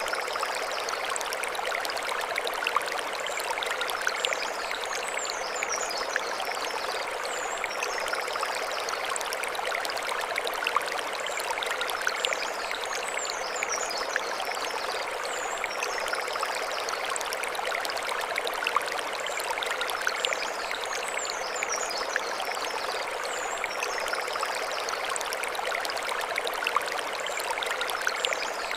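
Mountain stream flowing over stones: a steady rushing babble with small splashes throughout. Short high chirps recur every few seconds above the water.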